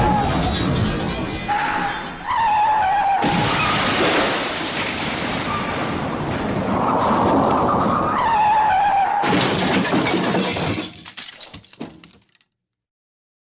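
Car crash sound effects: screeching tyres and shattering, breaking glass, fading out to silence about twelve seconds in.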